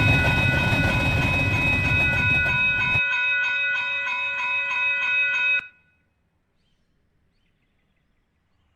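A train running by on the rails, a loud low rumble with a steady high-pitched squeal over it. The rumble drops out suddenly about three seconds in, the squeal stops a couple of seconds later, and the sound cuts to dead silence.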